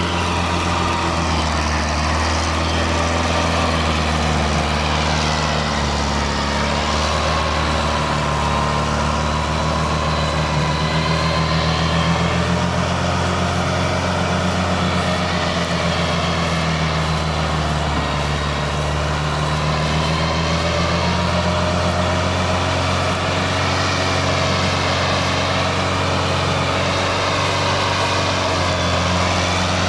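Tractor diesel engine running steadily and loud, its pitch dipping and recovering slowly as the load changes.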